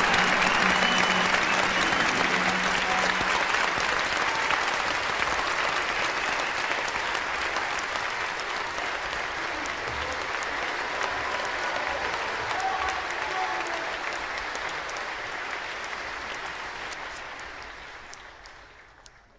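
Audience applauding, the clapping slowly thinning out and dying away near the end.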